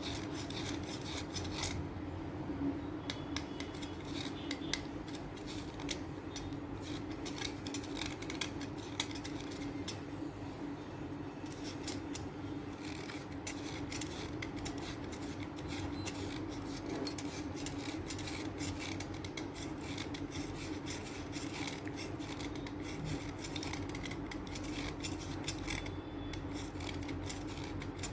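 Chalk being scraped and cut down to powder with a blade, in a continuous run of fast, dry, scratchy strokes over a steady low hum.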